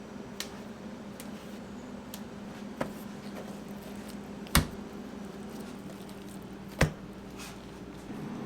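Kitchen work sounds: a steady hum with a few sharp knocks, two of them much louder than the rest.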